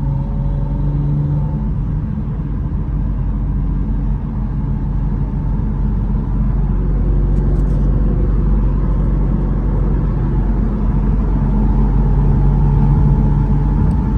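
Porsche 718 Spyder RS's 4.0-litre flat-six running at a steady highway cruise, heard over steady tyre noise on a wet road. The engine note sinks into the road noise about two seconds in and comes back up, a little louder, near the end.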